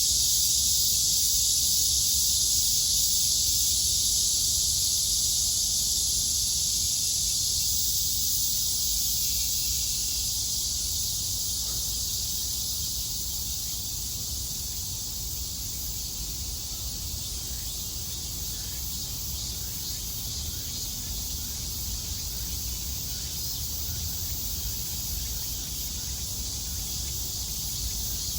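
Cicadas in a steady, dense, high-pitched buzzing chorus that slowly grows quieter through the first half.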